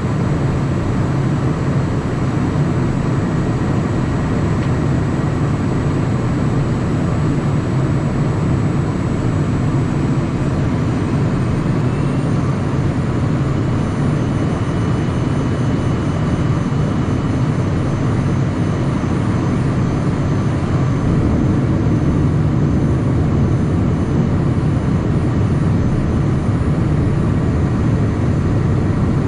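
Steady cabin noise inside a Cessna Citation Mustang: a loud, even hum from its twin Pratt & Whitney PW615F turbofans, with faint high whines held steady over it.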